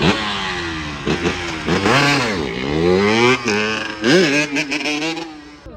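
Dirt bike engine revving hard, its pitch rising and falling several times as the throttle is worked.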